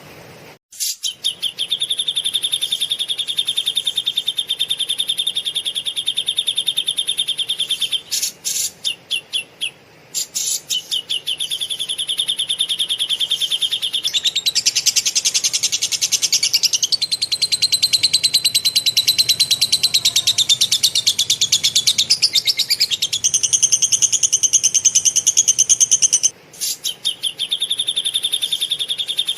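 Caged songbird chattering in a very rapid, dense trill of high notes, in long unbroken bursts: the lovebird-style rapid-fire 'tembakan' material of a bird-training recording. The bursts break into short stutters twice, and the pitch climbs higher through the middle.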